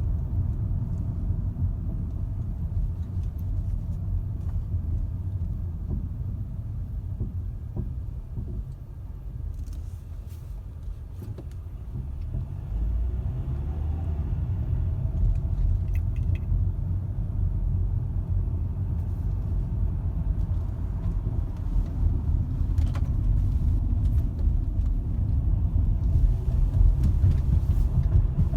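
2012 Ford Fusion 2.5L driving slowly with a steady low road rumble, broken by a few scattered soft clunks. The clunks are the sign of a worn front passenger-side lower ball joint.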